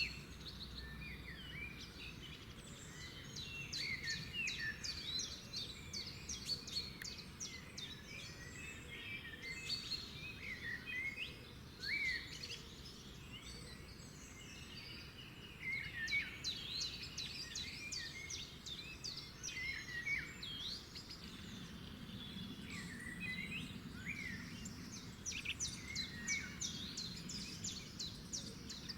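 Several songbirds singing together in a dense chorus of chirps and downward-sweeping calls, broken by quick high trills a few times.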